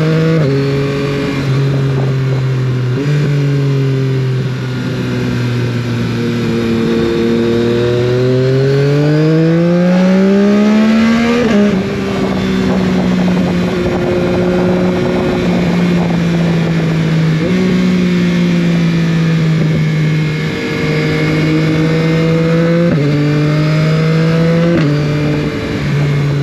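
Yamaha Tracer 9 GT+'s 890 cc inline-three running through a full Akrapovič race exhaust with the baffle removed, ridden on the road. The engine note climbs steadily for a few seconds, drops sharply on an upshift about halfway through, then holds a fairly steady cruising pitch with small throttle changes.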